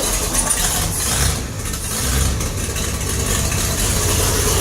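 Gasoline engine running just after catching on a start primed by pouring gas into the carburetor; it sags briefly about a second and a half in, then keeps running steadily at idle.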